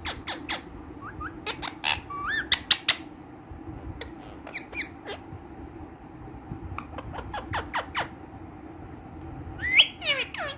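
Ringneck parakeets calling: a string of short, sharp chirps and squawks, with a few bending whistled calls and the loudest squawk near the end, over a steady low hum.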